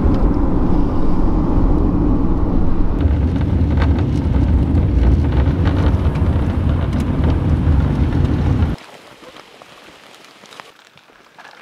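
Steady low rumble of a car driving on a wet road, with rain noise mixed in. It cuts off suddenly about nine seconds in, leaving quiet with a few faint ticks.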